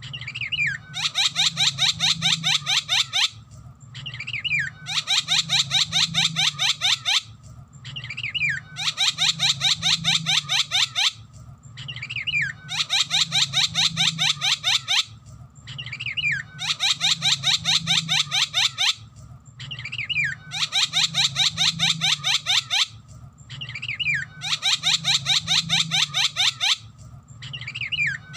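Javan myna singing the same phrase over and over, about every four seconds: a fast run of sharp chattering notes with a falling whistle in it, then a brief pause. A faint low hum lies under the song.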